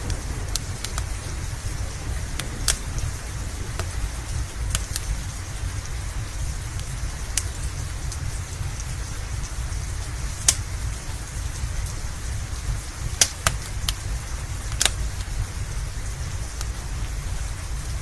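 Steady rain hiss with a wood fire crackling: about ten sharp pops at irregular intervals, over a steady low rumble.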